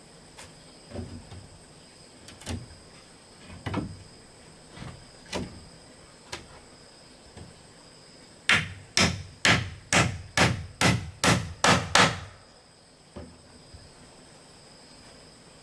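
Blows of a tool striking wood: a few lighter, irregular knocks about a second apart, then a run of about nine loud blows, roughly two and a half a second, that stops abruptly. Insects shrill steadily in the background.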